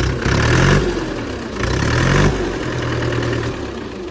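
Mahindra 575 tractor's diesel engine revving up twice, about a second and a half apart, then settling into a steady lower running speed.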